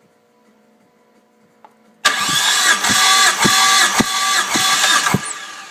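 Starter motor cranking a Mitsubishi 6G72 V6 for a compression test: a steady whine with a heavy pulse about twice a second from the compression strokes. It starts about two seconds in, runs for about three seconds, then stops and winds down.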